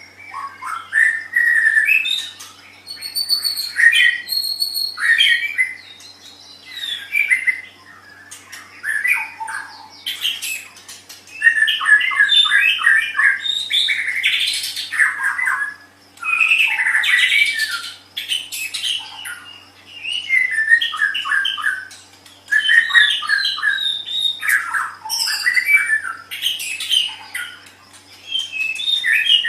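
White-rumped shama (murai batu) singing: a varied song of sliding whistles and rapid runs of short notes, delivered in bursts of a second or two with short pauses between.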